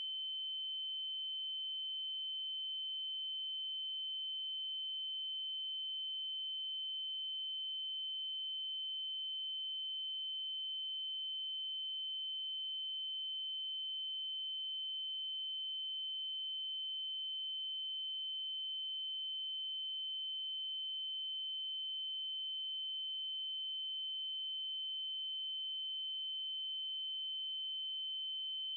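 Synthesized 3072 Hz triangle-wave tone, one high steady pitch held without change, with faint overtones above it.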